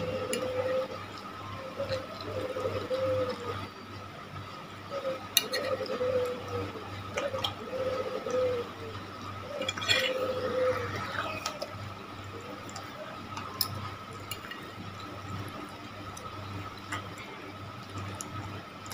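Close-up chewing of soft fried egg macaroni: wet, squishy mouth sounds with a few sharp clicks. A dove coos repeatedly in the background for roughly the first ten seconds, over a steady hum.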